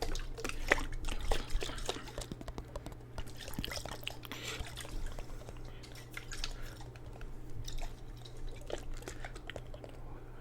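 Close-miked water in a jar, dripping and sloshing with many small splashes and light clicks, busiest in the first couple of seconds and softer after that.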